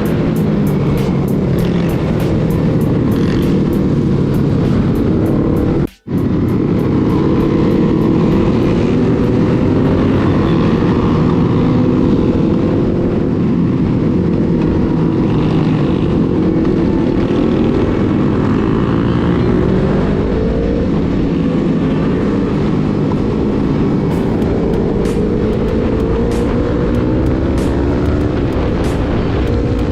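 Motorcycle engine running while under way, its pitch rising and falling slowly with the throttle, with wind noise over it. The sound cuts out completely for a moment about six seconds in.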